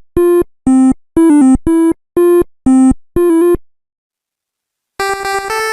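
Synthesizer music: a bouncy melody of short, clipped notes at about two a second, a few with quick pitch flourishes, then a pause and a faster run of notes starting near the end.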